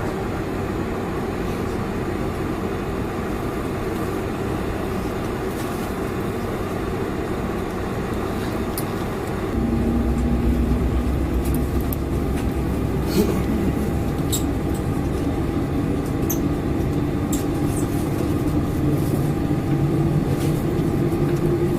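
Boeing 747-400 cabin noise heard from a window seat: a steady rumble of the engines and airflow. About ten seconds in, the low rumble steps up and grows louder, and an engine tone comes in and slowly rises in pitch as the engines spool up.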